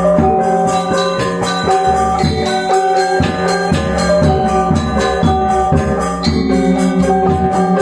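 Balinese gamelan gong ensemble playing: bronze metallophones in fast, dense strokes with ringing tones over sustained deep gong and low metallophone notes.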